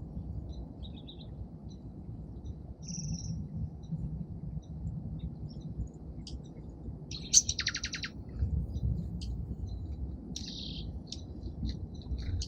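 Small songbirds at a bird feeder chirping: scattered short, high chirps, with a louder, rapid chattering call about seven seconds in, over a steady low background rumble.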